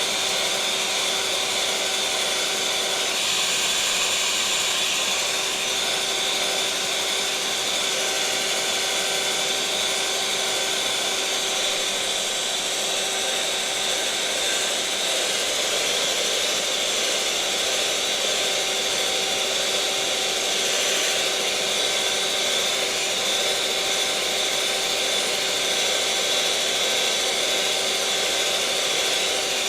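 Electric mixer motor running steadily at one speed: an even whirring hiss with a constant whine held at the same pitch, no changes in speed.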